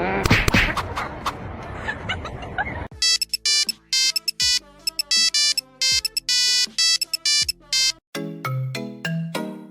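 Noisy rustling with a few clicks, then about three seconds in a bright electronic ringtone-style melody of quick repeated notes starts, moving to lower notes near the end.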